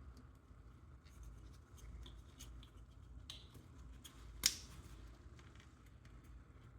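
Faint clicks and handling noises of small hand work on parts, with one sharp click about four and a half seconds in, over a steady low hum.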